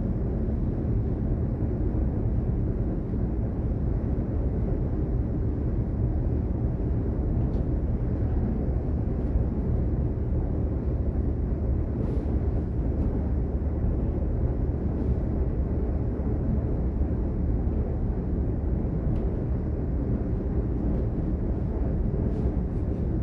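DB Class 422 electric multiple unit running steadily between stations, heard from inside the passenger compartment: an even low rumble of the train on the track, with a few faint ticks.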